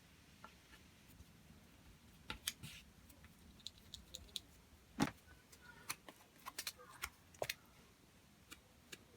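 Small metal parts and tools being handled: scattered light clicks and metallic taps, with one louder knock about five seconds in.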